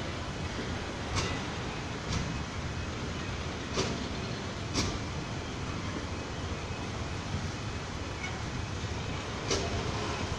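A freight train of enclosed double-deck car-carrier wagons rolling slowly over a street level crossing: a steady rumble of wheels on rail, broken by a handful of sharp wheel clicks.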